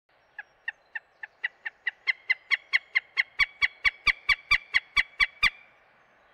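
A bird calling a series of about twenty short, sharp notes that speed up, grow louder and rise a little in pitch, then stop suddenly near the end.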